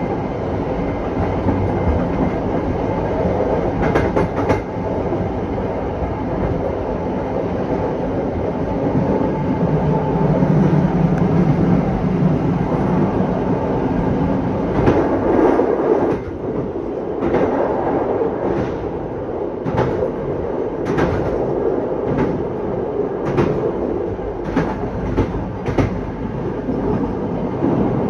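Passenger train running along the track: a steady rolling rumble of wheels on rails, louder for a stretch about halfway through. After that, sharp wheel clicks over rail joints come roughly once a second.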